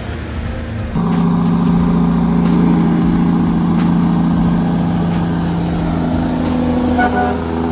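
Heavy truck's diesel engine running at a steady, even pitch, getting louder about a second in.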